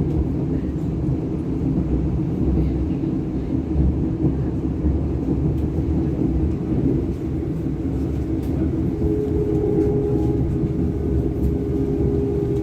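Running noise of a DB Class 425 electric multiple unit under way: a steady low rumble of the wheels on the track with humming tones from the drive. A higher steady tone joins about nine seconds in.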